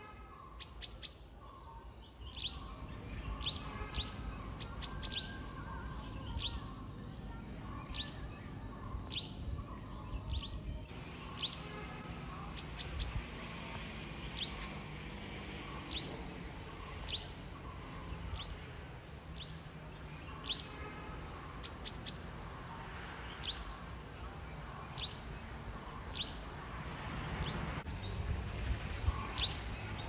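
Birds chirping: short, sharp descending chirps repeated about once or twice a second, over a steady low background rumble.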